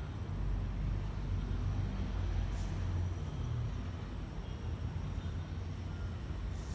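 Steady low background rumble, with two faint brief hisses, one about two and a half seconds in and one near the end.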